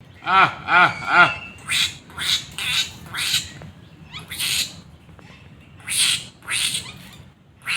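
Birds calling: three quick pitched calls in the first second and a half, then a string of harsh squawking calls.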